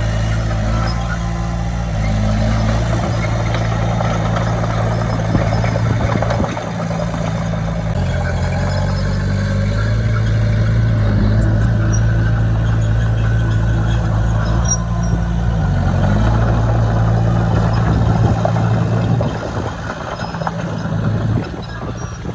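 Heavy diesel engine of an earthmoving machine running and working, its pitch stepping up and down several times as the throttle changes, with a clattering noise over it. It grows quieter near the end.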